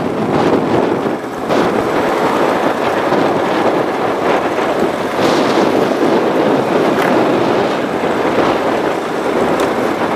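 Road travel heard from a moving vehicle: a steady rush of road and wind noise buffeting a phone microphone.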